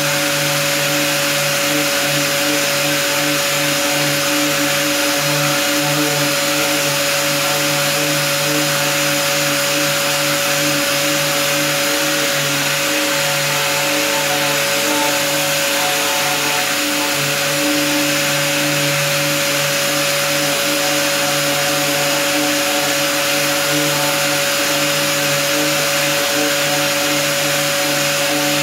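Power sander running steadily, sanding a plastic car bumper down to bare plastic: an even hiss with a constant hum underneath.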